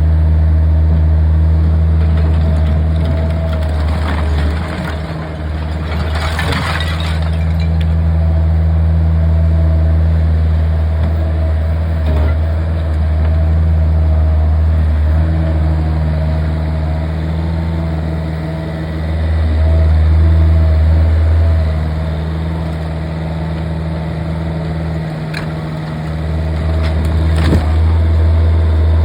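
Bobcat's diesel engine running steadily under varying load, its low hum swelling and easing several times. About six seconds in there is a harsh noisy crash lasting about a second, and near the end come two sharp knocks.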